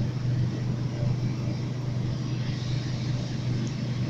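MTR K-train electric multiple unit running at speed, heard from inside the carriage: a steady low hum with even wheel-on-rail noise.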